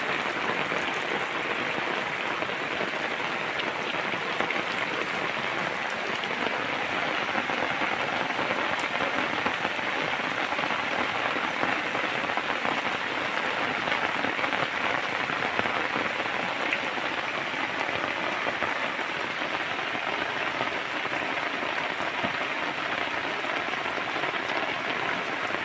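Steady rain falling and pattering on surfaces, a dense even hiss with fine drop ticks.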